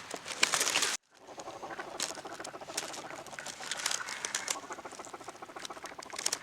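Huge flock of mallards: a dense, rapid patter of many birds' wings and calls together, after a sudden cut to silence about a second in.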